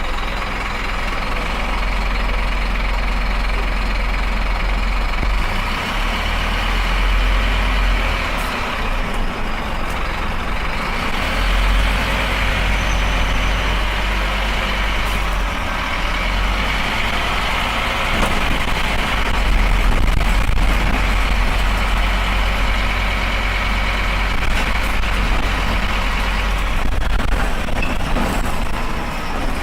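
Scania Esteem single-deck bus running, its diesel engine droning steadily under a haze of road noise, the level rising and falling a little as it goes.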